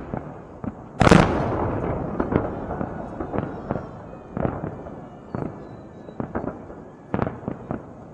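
Fireworks shells bursting: one big bang about a second in, with a long echoing rumble that fades over a few seconds, then a string of smaller bangs and crackles.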